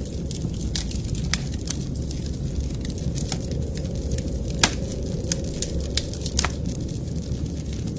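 Wood fire crackling in a fireplace: irregular sharp pops and snaps, the loudest a little under five seconds in, over a steady low rumble.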